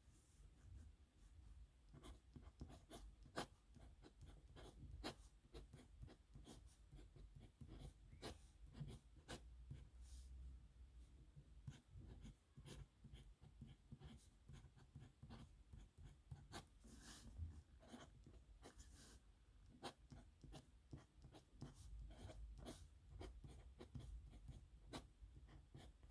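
Faint scratching of a pen nib on paper in short, irregular strokes, as handwriting is written out stroke by stroke.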